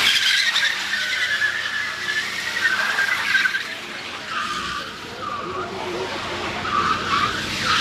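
Car tyres squealing as a car drifts: a wavering high squeal that breaks off and returns several times, dipping a little in the middle.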